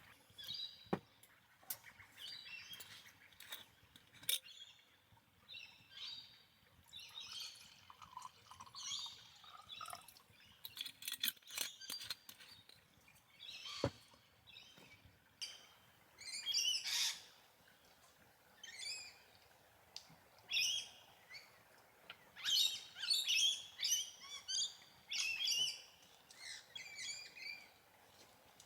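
Birds chirping and calling over and over, short high chirps and trills that grow busier and louder in the second half. A few sharp clicks sound among them.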